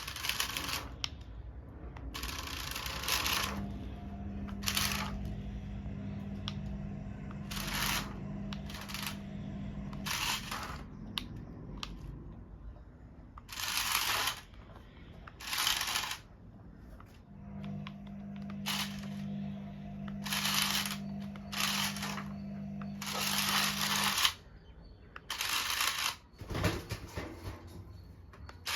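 Small electric motor of a toy monster truck whirring steadily in two runs of about six seconds each, among repeated short scraping, rustling bursts.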